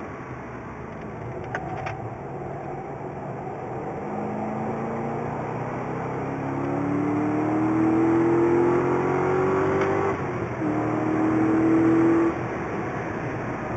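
Corvette Z06's V8 heard from inside the cabin, accelerating hard: the engine note climbs steadily for several seconds, drops at an upshift about ten seconds in, climbs again, then falls away near the end.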